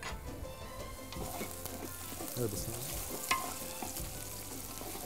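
Shrimp sizzling as they fry in a large stainless-steel pot while a spoon stirs them, with a sharp knock of the spoon against the pot about three seconds in.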